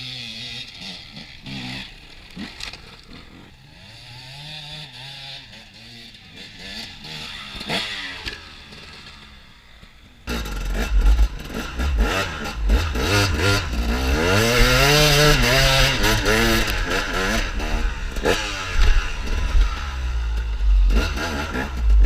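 Off-road motorcycle engines revving, the pitch climbing and dropping as the throttle opens and closes. About ten seconds in it gets suddenly much louder, with a heavy low rumble under the revving.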